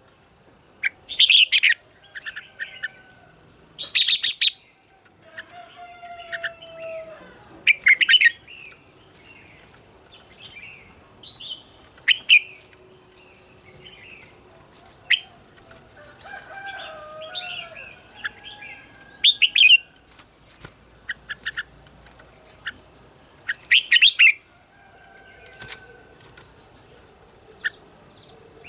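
Red-whiskered bulbuls singing: loud short phrases every few seconds, with softer whistled notes and pitch glides in between.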